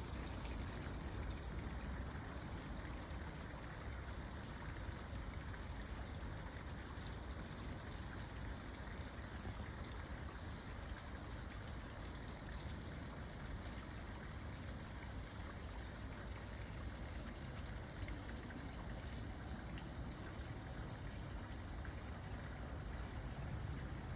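Steady ambient noise: an even rush with a low rumble underneath, unchanging throughout; no bird calls stand out.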